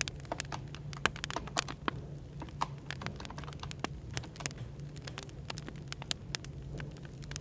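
Burning firewood crackling with irregular sharp pops, over a steady low hum of background room noise.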